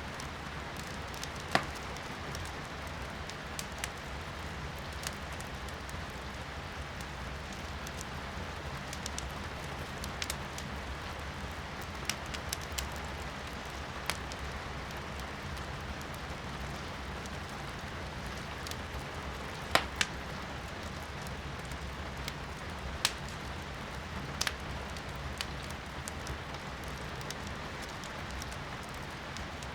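Firewood burning in a fireplace, crackling and popping at irregular moments, with the loudest pops about 1.5 s in and a pair near 20 s, over a steady hiss of rain heard from indoors.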